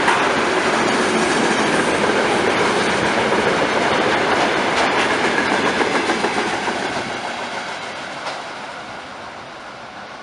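Loaded tank wagons of a long freight train running past, wheels clicking over the rail joints, fading away over the last few seconds as the train draws off.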